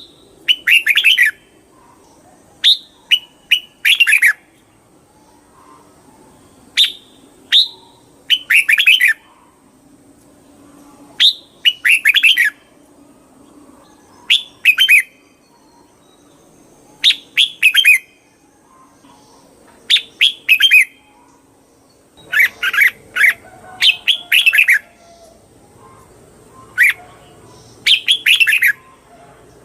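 Red-whiskered bulbul singing short, bright phrases, repeated every two to three seconds.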